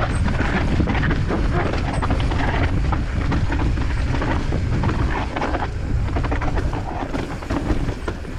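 Mountain bike clattering and rattling over a rough, rocky trail on a descent: rapid knocks from tyres, chain and frame, over a steady rumble of wind on the action-camera microphone. It eases a little near the end.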